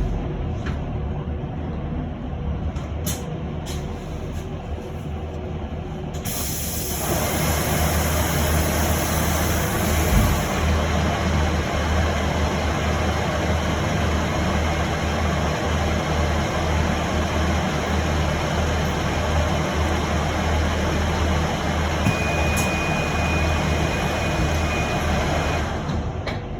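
Inside an electric city bus: it stands with a low hum and a few clicks, then about six seconds in a hiss of compressed air sets in and the bus moves off, with steady running and tyre noise after that. A short steady beep sounds near the end.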